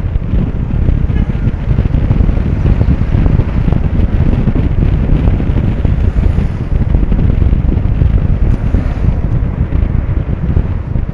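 Wind buffeting the helmet microphone of a moving motorcycle, a loud steady low rumble with the ride's engine and road noise beneath it.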